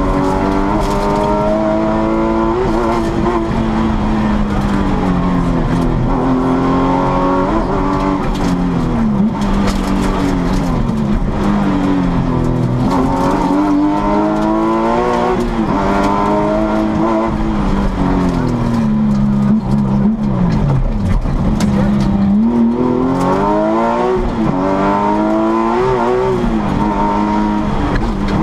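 Porsche 996 GT3's flat-six engine at full race pace, heard from inside the cockpit: the revs climb and drop over and over as it accelerates, shifts and brakes, with one deep fall in revs about two-thirds of the way through.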